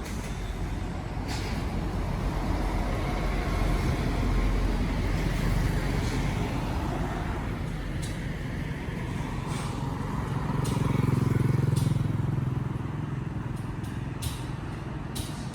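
Highway traffic: vehicles driving past with a low rumble that swells about four seconds in and again around eleven seconds, and a few faint clicks near the end.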